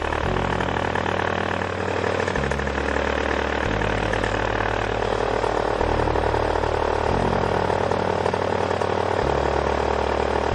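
Paramotor engine running steadily at idle, with background music whose bass notes change every second or two.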